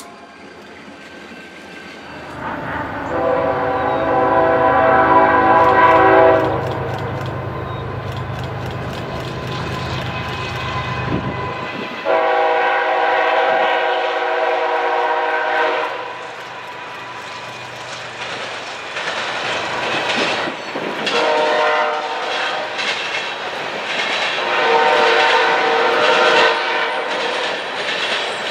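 Freight train passing: a diesel locomotive's air horn sounds a chord in four blasts, long, long, short, long, the standard signal for a grade crossing. Engine rumble sits under the first blast, and wheel clicks on the rail joints come through in the second half.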